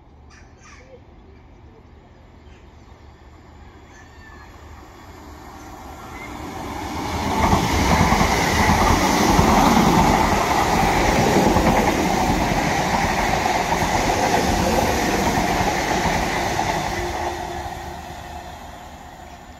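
Class 325 Royal Mail electric mail train, made up of three units, running past close by. Its rumble and wheel noise builds over a few seconds, stays loud for about ten seconds as the coaches go by, then fades as it draws away.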